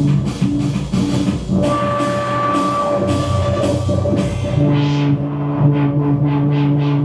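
Loud rock music with electric guitar and drum kit, played live.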